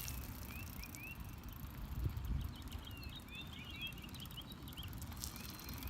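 Many short, high chirps from small animals, each rising in pitch, scattered over a steady low rumble.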